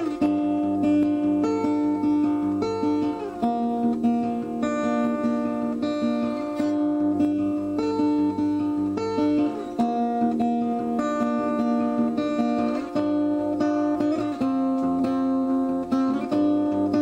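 Background music: strummed acoustic guitar with sustained chords that change every second or two.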